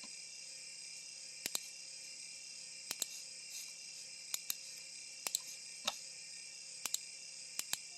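Computer mouse clicks, mostly in quick double pairs every second or so, over a steady high-pitched hiss.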